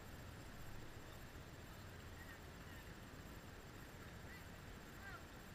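Faint, short honking bird calls, several of them spaced through the second half, over a low steady rumble of outdoor air.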